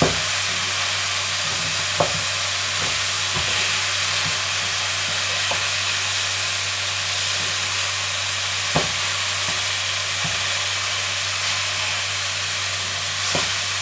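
Pieces of long eggplant sizzling steadily in hot oil in a pan, now fried golden and being pressed open. A few short knocks of the wooden spatula against the pan come through, about two seconds in, near nine seconds and near the end.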